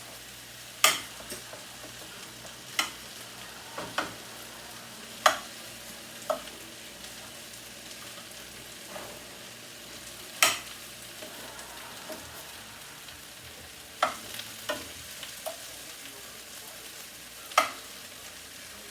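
Potatoes and mushrooms frying in a pan, a steady sizzle while being stirred, with about nine sharp knocks of a utensil against the pan at uneven intervals.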